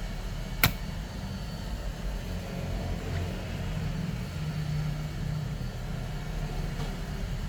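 Steady low rumble of background noise, with one sharp click a little over half a second in.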